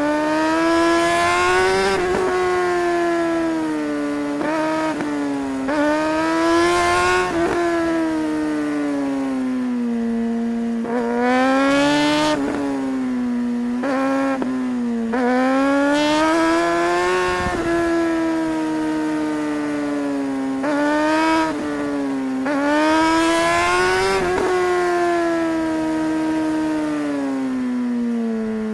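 Suzuki GSR 600's inline-four engine under way, revving up again and again with short sharp drops in pitch at each gear change and easing off in between. Near the end it winds down steadily as the bike slows.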